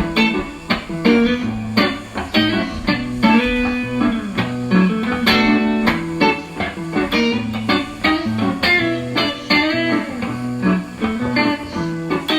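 Guitar music: an instrumental passage of quick plucked notes over a steady low line, with no singing.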